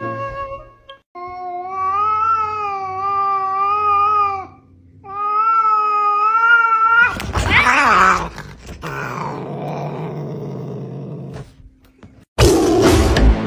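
Domestic cats caterwauling in a face-off: two long, wavering yowls, then a harsh, noisy burst about seven seconds in and a lower, rougher growling stretch. Music with a thumping beat comes in near the end.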